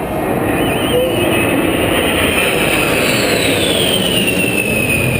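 Boeing B-52 bomber's eight jet engines roaring overhead in a low flyby, with a high whine that falls in pitch from about halfway through as the aircraft passes.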